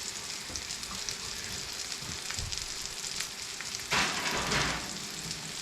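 Food sizzling and crackling steadily in a frying pan on the stove. About four seconds in, a louder noisy surge lasts under a second.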